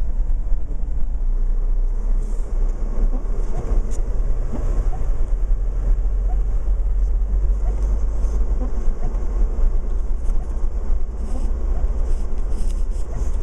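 Steady low rumble of a truck driving, with engine, tyre and wind noise heard from inside the cab.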